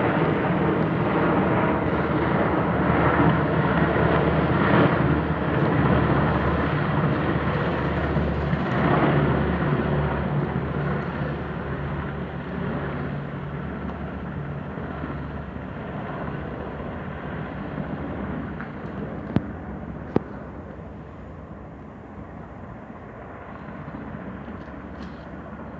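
US Army helicopters flying over, their rotor and engine noise loud at first, then fading steadily over the second half as they move away. Two sharp clicks come about two thirds of the way through.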